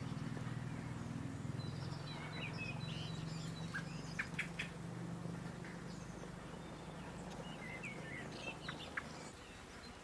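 Birds calling with short high chirps, with a few sharp clicks about four seconds in and again near the end, over a steady low hum.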